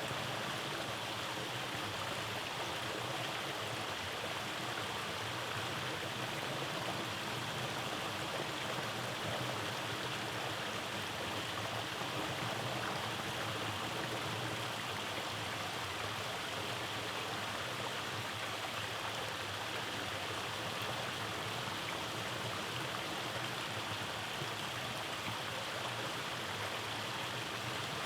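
Rainforest stream flowing steadily over cascades, an even rushing of water.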